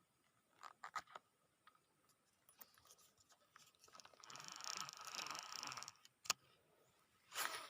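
Fishing reel being cranked: a fast, fine mechanical ticking of the reel's gears for about two seconds, with separate sharp clicks before and after.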